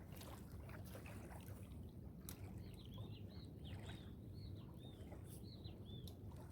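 A bird singing a quick series of short, arched chirping notes, starting about two and a half seconds in and stopping near the end, over a faint steady low background noise.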